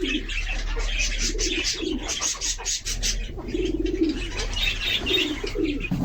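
Domestic pigeons cooing, a string of low warbling coos, with higher bird chirps over them.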